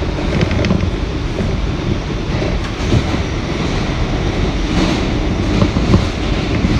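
R179 subway train running on the express track, heard from inside the car: a loud, steady rumble of wheels on rail, broken by irregular clicks as the wheels pass over rail joints.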